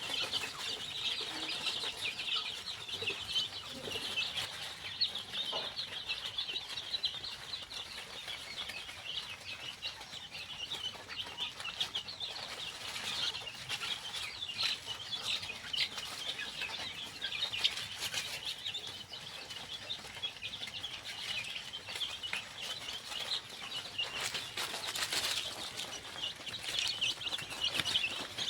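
Chicks peeping: a dense, continuous chorus of short high-pitched cheeps from many chicks, with a few lower calls in the first several seconds.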